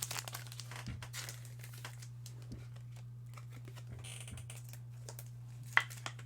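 Trading cards being handled and sorted: light rustling and scattered clicks, with one sharp tap near the end, over a steady low hum.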